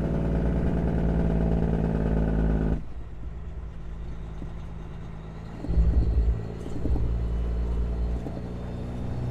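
Semi truck's diesel engine running steadily on the road, cutting off suddenly about three seconds in. A quieter vehicle rumble follows, with two louder low surges near the middle.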